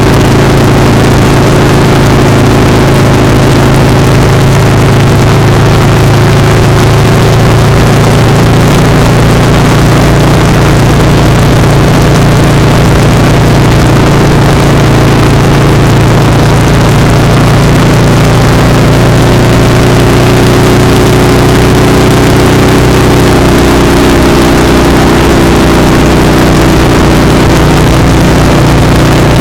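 Motorcycle engine running at a steady cruise, heard close up from a camera on the foot peg, over wind and road noise. Its pitch rises slightly about two-thirds of the way through.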